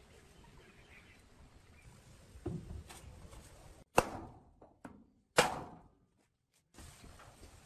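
A soft thump, then two sharp knocks about a second and a half apart, each dying away quickly, over a faint background that cuts out briefly after the second knock.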